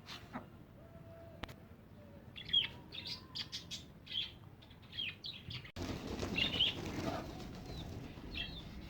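Small birds chirping in short, repeated high calls, with a couple of sharp clicks before them. About two-thirds of the way in the sound changes abruptly to a louder rustling background with fewer chirps.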